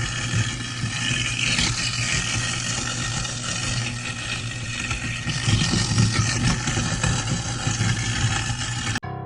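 A motor or engine running with a steady low hum under a rough, fluctuating noise, cutting off suddenly near the end.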